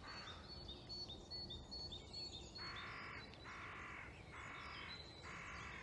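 A crow cawing, a run of harsh, evenly spaced calls about one a second starting around halfway through, with small birds chirping high and thin in the background.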